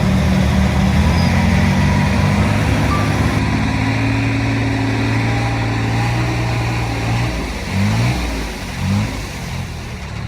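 Heavy-equipment diesel engine running steadily under load. After about seven seconds it eases off, then gives two short revs near the end.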